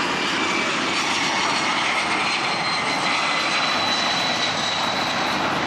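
Fighter jet's engine running on the ground before takeoff: a steady loud noise with a high-pitched whine over it.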